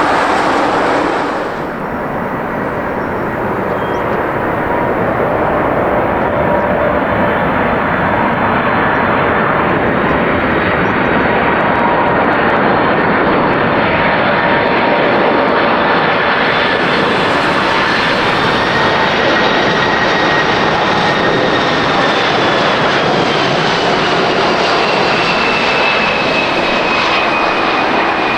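Jet airliner engines running loud and close, a dense rushing noise with thin turbine whine tones that slowly fall in pitch.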